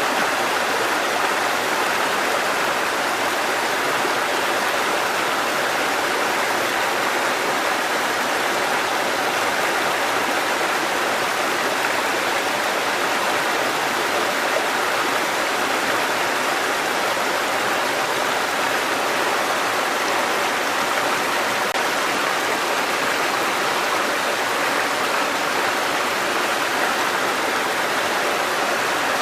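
Mountain stream cascading over rocks, a steady rushing of water with no change in level.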